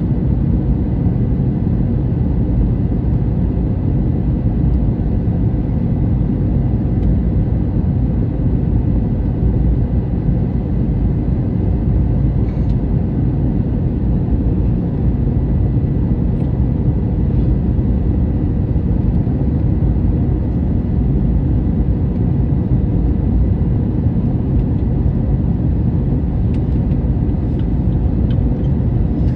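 Steady airliner cabin noise inside an Airbus A321neo in flight: a constant low rumble of engines and airflow with a faint steady high tone over it.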